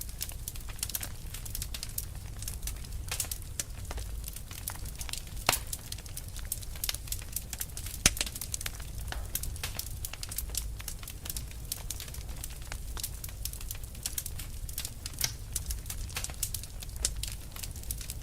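Fire burning with a steady, irregular crackle of many small pops and snaps, a few louder sharp pops standing out, over a low rumble.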